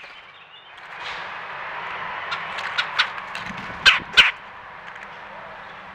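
Birds at a feeder knocking against it: several sharp knocks, the loudest two close together a little past the middle, over a steady rushing hiss.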